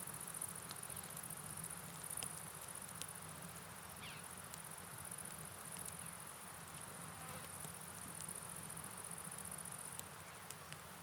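Crickets chirring steadily in a high, pulsing trill over a soft, even hiss of rain and flowing river water, with scattered sharp ticks throughout.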